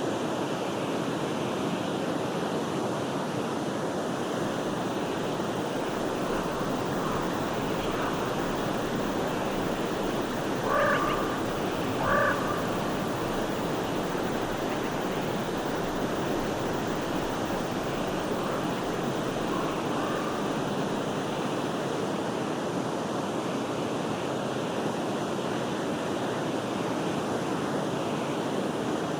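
Forest stream flowing steadily. Two short pitched calls, most likely from a bird, rise above the water about a second and a half apart near the middle, with a few fainter calls elsewhere.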